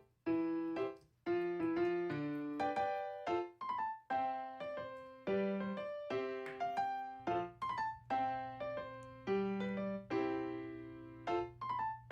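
Background music: a piano or electric-piano melody of separate notes, with a held low note coming in about seven seconds in.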